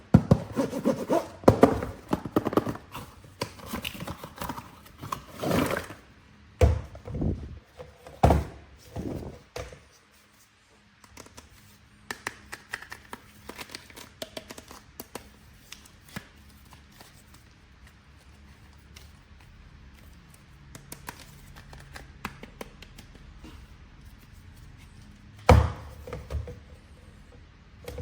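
Hands handling toy packaging and action figures: dense rustling and clicking at first, then a few separate thuds, scattered light taps and one loud thud near the end.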